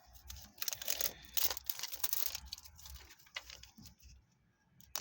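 Toy packaging being handled: crinkling and rustling with small clicks, in quick bursts for the first few seconds, then dying away.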